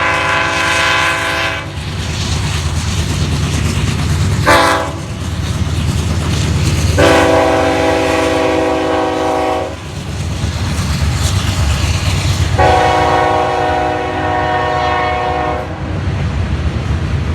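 A CSX GE C40-8W diesel locomotive sounds its multi-note air horn in a series of blasts: one ends about a second and a half in, a short blast follows, then two long blasts. The low rumble of the passing train runs underneath.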